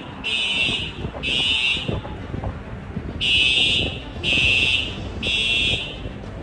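Smoke or fire alarm beeping in the evacuation pattern: three high beeps, a pause, then three more. Underneath is a low rumble with scattered knocks.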